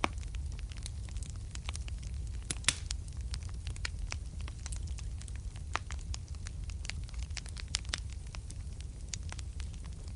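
Wood fire burning in a fireplace: irregular sharp crackles and pops, several a second, over a low steady rumble of the flames. The loudest pop comes about two and a half seconds in.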